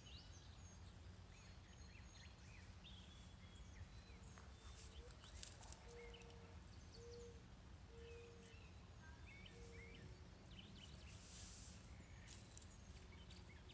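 Near silence: faint yard ambience with a steady low rumble and scattered distant bird chirps. About halfway through comes a run of five short, low, even notes, about one a second.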